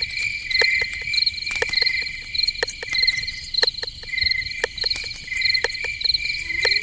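Night chorus of crickets chirping in short pulsed bursts at two pitches, about two chirps a second each, with sharp clicks scattered through.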